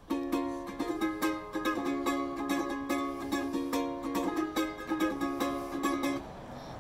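Ukulele strummed in a quick, even rhythm of chords, stopping about six seconds in.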